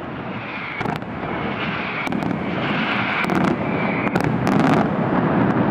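Aerial fireworks shells bursting in quick succession: a dense run of sharp bangs over a constant din, growing steadily louder.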